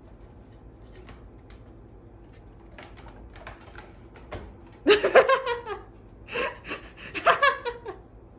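A few faint taps and clicks, then from about halfway through a person laughing loudly in several bursts.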